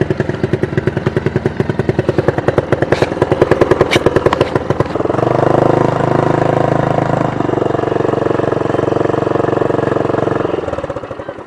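Honda BF2DH 2 hp four-stroke single-cylinder outboard motor running with a rapid, even firing beat. About five seconds in it picks up to a steadier, faster run, then dies away and stops near the end.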